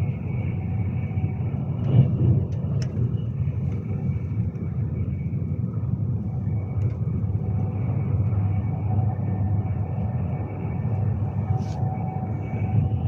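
Steady low rumble of a Class 390 Pendolino electric train running at speed, heard inside the carriage, with a faint whine rising above it for a few seconds near the end.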